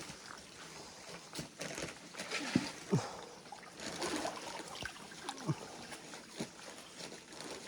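Stream water trickling and splashing, with scattered small splashes, drips and plops.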